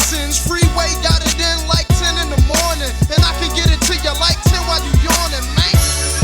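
Hip hop track playing: a rapped vocal over an even drum beat and a heavy, sustained bass line.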